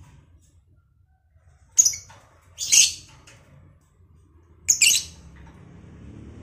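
Lovebirds giving loud, shrill squawking calls in three short bursts, about two, three and five seconds in.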